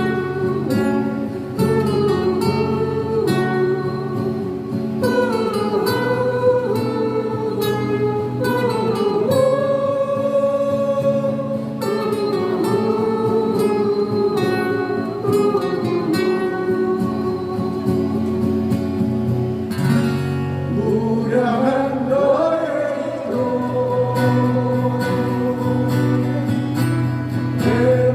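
Live acoustic-guitar band music: strummed acoustic guitars under a singer's melody, playing continuously.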